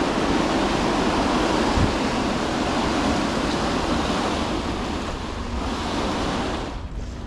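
Flatbed truck tarp being dragged along the trailer, a steady rough rushing noise that dies away near the end.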